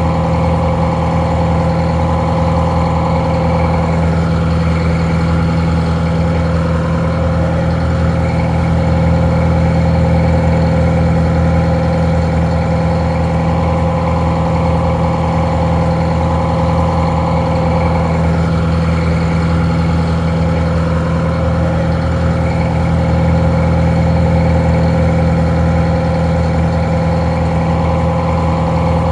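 Detroit Diesel 4-71 two-stroke diesel engine idling steadily, with a constant low drone and a steady whine above it; it drives a barge winch. The sound is a little muffled.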